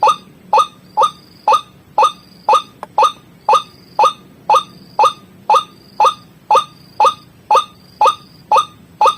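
White-breasted waterhen (ruak-ruak) lure call: a short, sharp note repeated evenly about twice a second.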